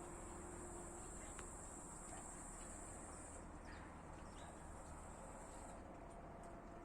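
A faint, steady, high-pitched insect trill that drops in level about three and a half seconds in and stops near six seconds, over a low background hum.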